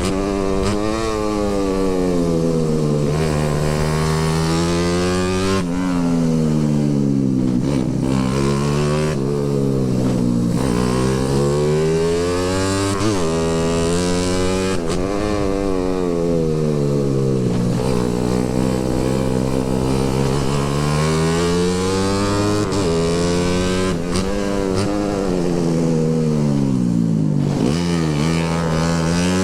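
Motorcycle engine running under way, its pitch rising and falling over and over as the rider opens and closes the throttle, with steady road and wind noise.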